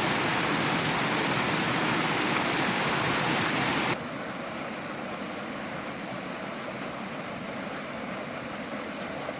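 Storm runoff water rushing out of a pipe outlet, a steady, hissing rush. About four seconds in it drops suddenly to a quieter, duller rush.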